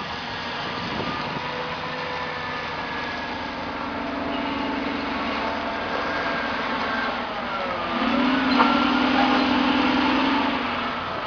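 Motor vehicle engines running steadily, with one engine growing louder about eight seconds in and dropping back shortly before the end.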